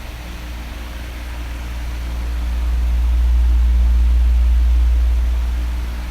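Electric fan running: a steady rush of air with a faint motor hum. A deep low rumble swells up over a couple of seconds, holds, then fades away near the end, as the oscillating fan head sweeps its airflow across the microphone.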